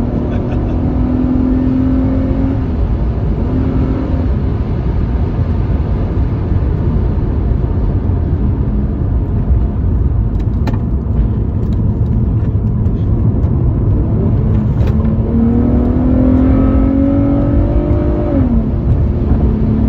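A 2005 Infiniti G35 Coupe's 3.5-litre V6 heard from inside the cabin at speed, running steadily under heavy road and wind noise. Late on, the engine note rises as the car accelerates, then falls sharply.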